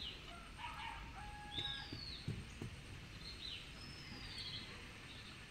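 Birds calling: short, high whistled calls that slide downward, about four of them spaced a second or so apart, with a few faint low knocks underneath.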